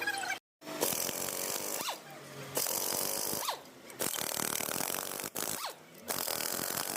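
Power tool running in about four bursts of a second or so each, several of them ending in a falling whine as the tool spins down.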